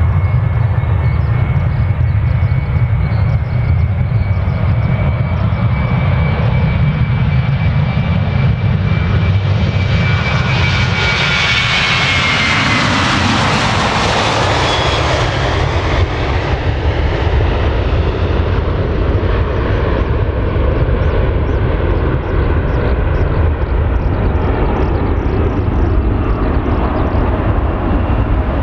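Boeing 737-800 jet airliner's CFM56 turbofan engines growing louder as it approaches, passing about twelve seconds in with a whine that drops in pitch, then slowly receding. A steady low rumble runs underneath.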